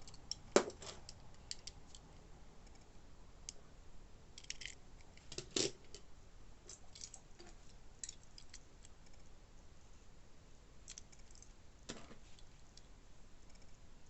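Scattered light clicks and taps from handling small diecast toy cars and their packaging, with a louder knock about half a second in, another about five and a half seconds in, and a softer one near twelve seconds.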